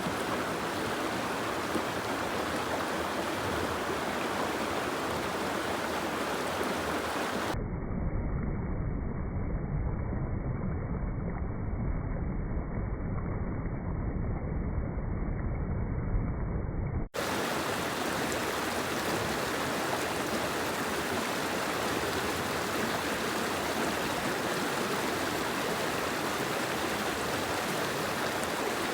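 Steady rushing of rain and running water. From about eight seconds in the sound turns muffled and deeper for roughly ten seconds, then switches back abruptly to the brighter rushing.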